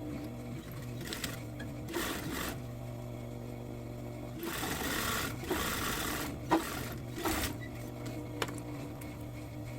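Sewing machine running, its motor humming steadily while it stitches in a few short runs, with a sharp click about six and a half seconds in.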